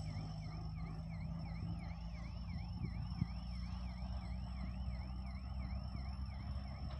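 Level-crossing warning signal sounding: a repeating electronic chirp, about two and a half a second, over a steady low rumble.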